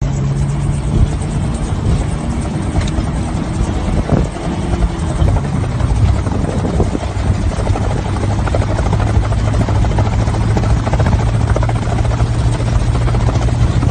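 Homemade helicopter running, its engine and rotor making a steady loud drone with a rapid chop. The engine note drops a little about five seconds in.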